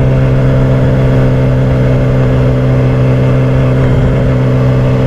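Motorcycle engine running at a steady cruise, a constant unchanging hum under an even rush of road and wind noise.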